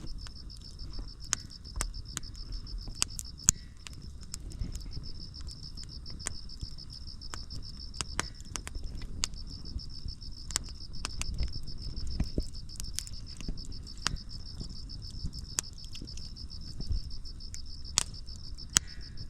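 Crickets chirping in a steady high trill, over irregular sharp pops and crackles from split firewood burning in an outdoor fire.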